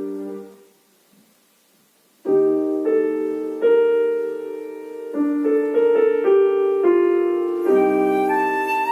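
Flute and piano playing classical music: a held flute note fades away into a short pause, then piano chords enter and ring on, and the flute comes back in near the end.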